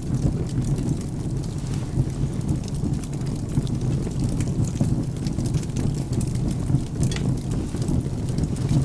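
Wood fire crackling in a fireplace with scattered sharp pops, over a steady low rumble of rain and thunder.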